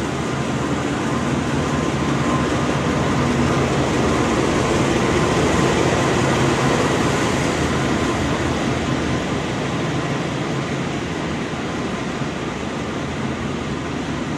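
CC 206 diesel-electric locomotive running as it hauls a cement freight train past at close range, followed by its loaded wagons rolling by on the rails. The sound grows to its loudest about halfway through as the locomotive goes by, then eases slightly as the wagons follow.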